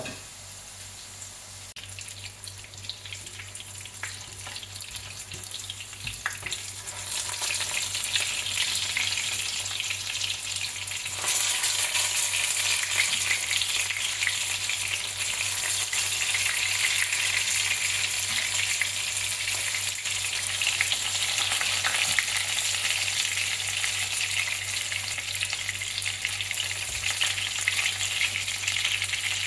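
Snapper deep-frying in hot oil: a dense crackling sizzle that grows louder about seven seconds in and again about eleven seconds in, then holds strong.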